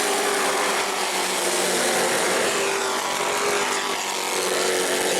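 A pack of Pro Truck racing pickups running at racing speed: a loud, steady drone of several engines together, their pitch wavering slightly.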